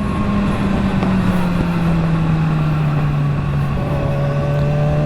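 Motorcycle engine running at a steady cruise with a constant drone, its pitch dropping a little under two seconds in and then holding, over a steady rush of wind and road noise.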